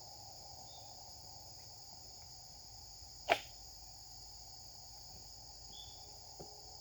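A single quick swish of a Japanese sword (katana) swung or cut about three seconds in, short and sharp, over steady insect chirring.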